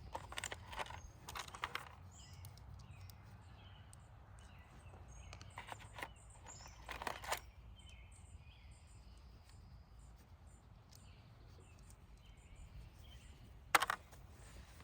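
Faint bird chirps over a steady low background rumble, broken by a few scattered clicks and knocks, the loudest a sharp knock near the end.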